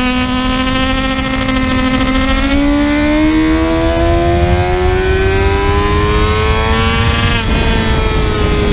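Sport motorcycle engine at high revs under a rider on a racetrack. The pitch steps up about two and a half seconds in, climbs steadily as the bike accelerates, drops sharply at a gear change near the end, then eases down. A low, steady wind rush runs underneath.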